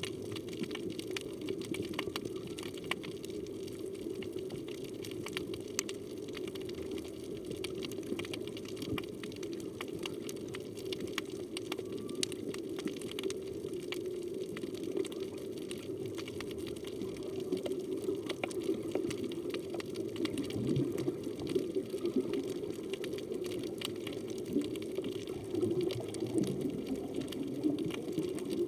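Underwater ambience: a steady low rush of moving water with a constant scatter of fine crackling clicks. A few faint wavering low tones come through in the second half.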